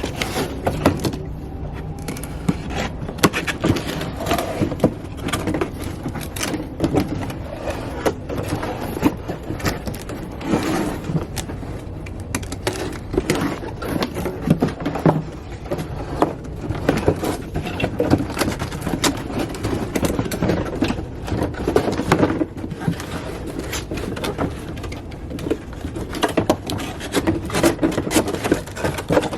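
Cardboard box and packaging being handled and unpacked: a busy run of knocks, scrapes and crinkling.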